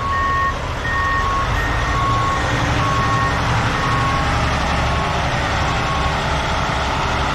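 Two reversing alarms beeping at different pitches, fading out about six seconds in, over a truck's steady engine rumble.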